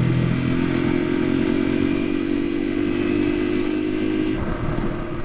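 Honda CRF300L single-cylinder motorcycle engine running steadily under throttle, heard from on board the bike as it picks up speed on the road. About four seconds in, the steady engine note drops away.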